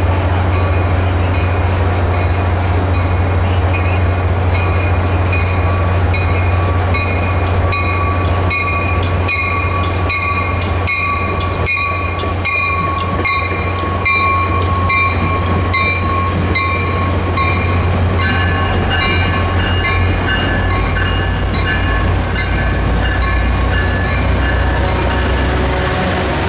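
A Caltrain diesel train's steady low rumble, with a train of bilevel coaches rolling slowly past on the near track. Its wheels squeal in steady high tones and click regularly over the rail joints.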